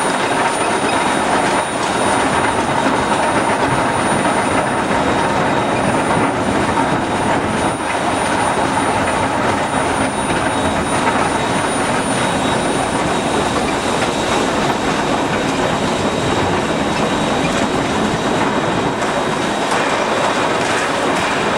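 Passenger train running along the track: a steady rumble and rattle of steel wheels on the rails.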